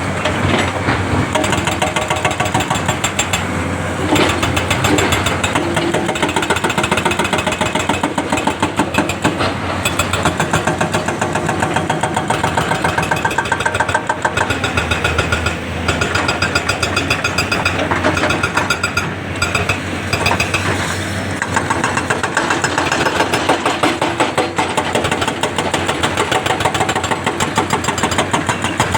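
Diesel engine of heavy construction machinery running steadily under work, with a fast, even rattle throughout.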